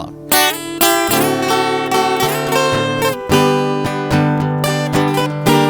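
Acoustic guitar and viola caipira strumming chords in the instrumental intro of a sertanejo song.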